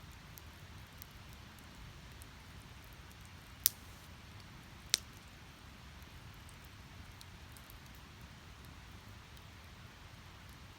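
Split firewood burning in a fire pit: a steady low rumble of flames with faint crackles, and two sharp loud pops about a second apart near the middle.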